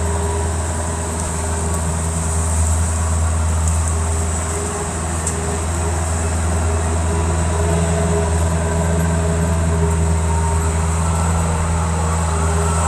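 Bobcat skid steer's diesel engine running steadily at a constant speed, with a deep, even hum.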